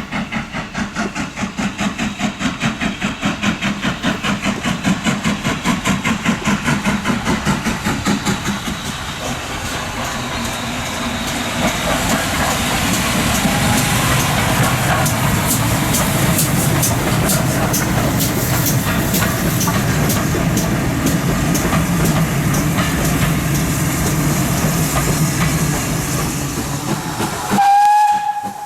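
Steam locomotive working, with regular exhaust beats at about three a second that give way after about eight seconds to a steady hiss of steam and rail noise. Near the end comes one short blast on the steam whistle.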